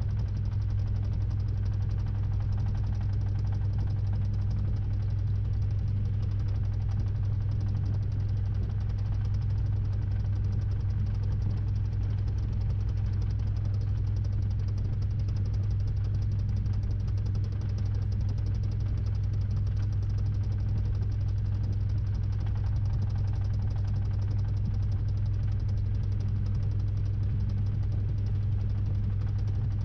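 Samsung 6.5 kg top-load washing machine in its spin-dry phase, heard from inside the drum: a steady low motor hum and drum vibration that keeps an even pitch and level.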